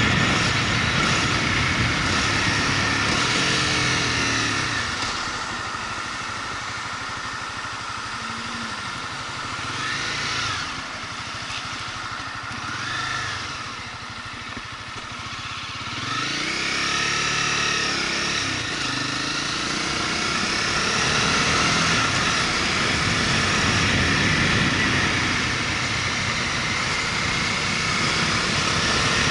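Motorcycle engine running on a ride, with wind noise. In the middle the engine drops to a lower, quieter note, then its pitch rises again as the bike picks up speed.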